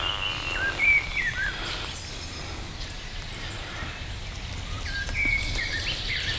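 Birds calling: a few short chirps and brief sliding notes about a second in and again near the end, over a steady low rumble.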